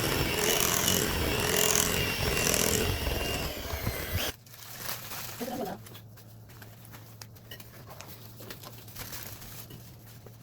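Electric mixer running in a bowl of batter, then switched off abruptly about four seconds in. After that only a low steady hum and a few faint clicks remain.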